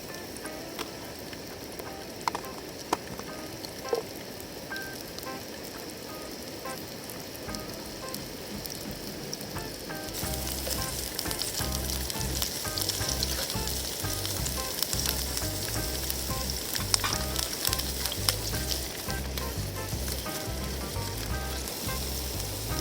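Somen noodles stir-frying in a hot pan (somen champuru), sizzling steadily, with a few utensil clicks in the first few seconds. The sizzle gets louder about ten seconds in.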